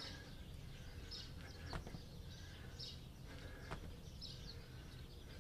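Faint outdoor background with a small bird chirping, one short high call about every second and a half, and a few soft clicks.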